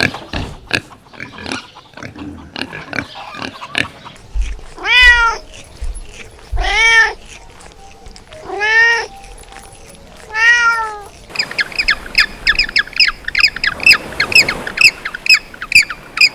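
A domestic cat meows four times, each meow a rise-and-fall call roughly two seconds apart. Before the meows there are scattered short clicks. After them comes a quick run of high-pitched chirps.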